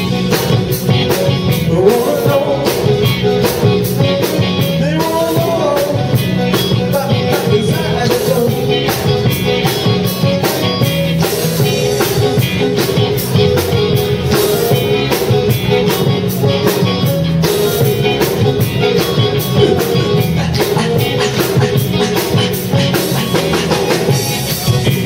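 A band playing a blues-rock number with a steady beat, guitar and keyboards, and some singing.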